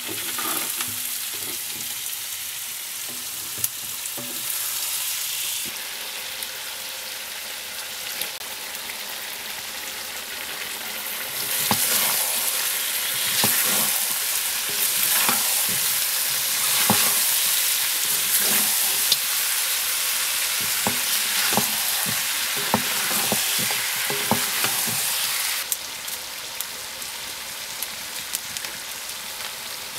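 Chicken, onion and tomato sizzling as they stir-fry in a metal kadai, with a wooden spatula scraping and turning them in irregular strokes. The sizzle gets louder about a third of the way in and drops back near the end.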